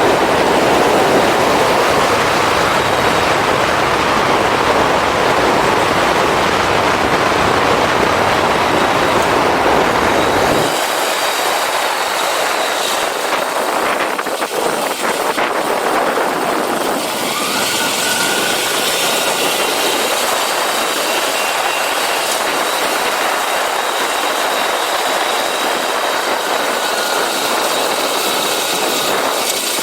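Wind rushing over the camera microphone on a moving motorcycle, mixed with the bike's engine and road noise. About a third of the way in, the deep rumble drops out abruptly, leaving a thinner, higher hiss.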